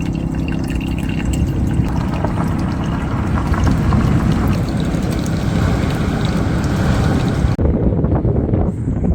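Wind rumbling on the microphone over the wash of sea water, loud and steady; the higher hiss drops away suddenly near the end.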